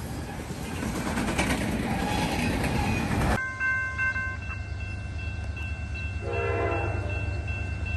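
Freight cars rolling past with a steady rumble and wheel clatter on the rails. After a sudden cut, a distant locomotive horn blows long steady chords, growing fuller and louder a few seconds later as a train approaches.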